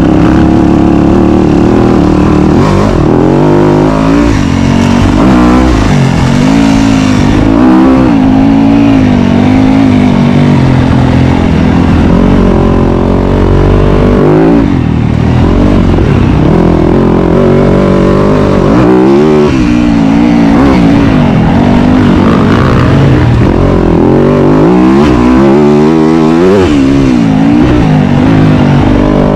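Dirt bike engine being ridden hard, its pitch rising and falling again and again as the throttle is opened and closed.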